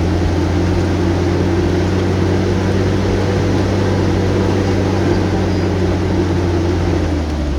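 Vehicle engine running at a steady speed, a constant low drone with a noisy hiss over it.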